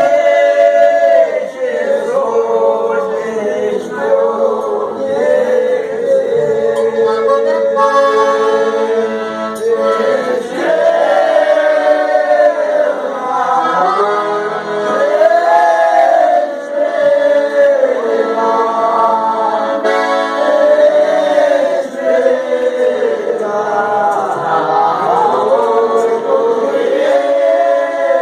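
Several voices singing a Folia de Reis song together in harmony, in long phrases with drawn-out held notes.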